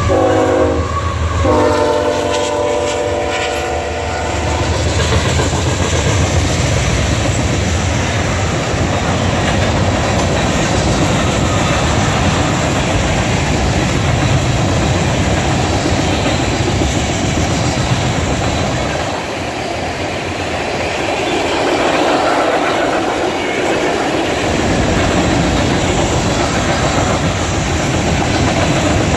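A train horn blows over a freight train rolling past close by, the horn stopping about four seconds in. After that comes the steady rumble and wheel clatter of tank cars going by.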